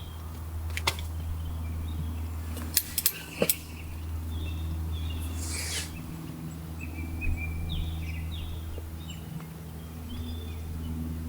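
Small birds calling in short chirps, some with quick downward slurs, over a steady low hum. A few sharp clicks come in the first few seconds, and a short hiss about five seconds in.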